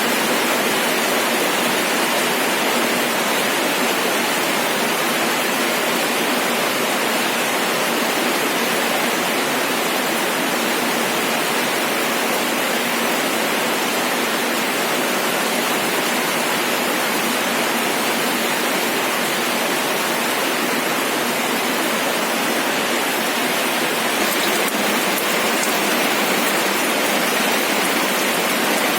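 Steady rain falling, a dense even hiss of drops with no breaks.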